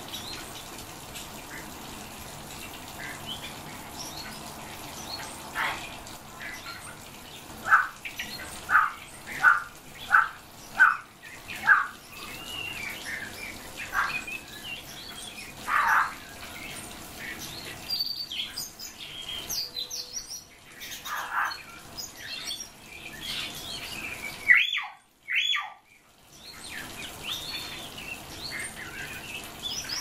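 Caged songbirds calling: a quick run of about six short, sharp calls, then scattered single calls and higher chirps later on, over a steady hiss.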